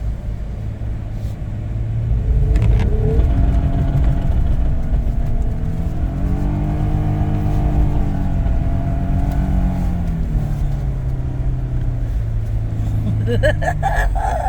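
A vehicle's motor speeding up about two seconds in, running at its highest pitch in the middle, then slowing down again. A short voice sounds near the end.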